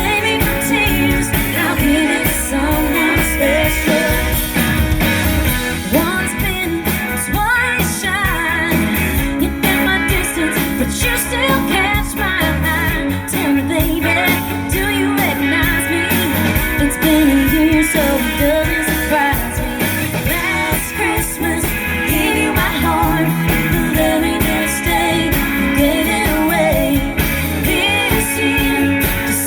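Live band performing a Christmas song: a singer with guitar accompaniment over a steady beat, amplified.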